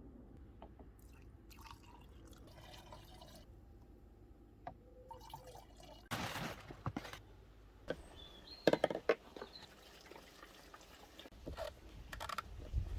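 Freshly mixed two-stroke fuel sloshing and pouring in a container, with scattered clicks and knocks from handling, and louder splashy bursts about six and nine seconds in.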